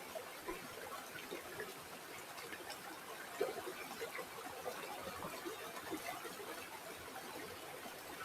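Shallow water trickling and babbling over stones in a small stream, with steady small splashes and one slightly louder splash about three and a half seconds in.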